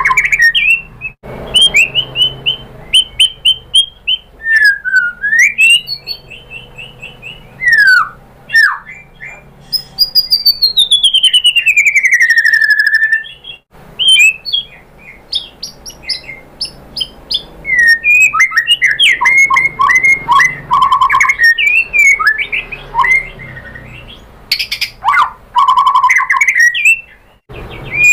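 White-rumped shama singing a loud, varied song of clear whistles, rapid repeated notes and trills, with a long falling whistle about ten seconds in.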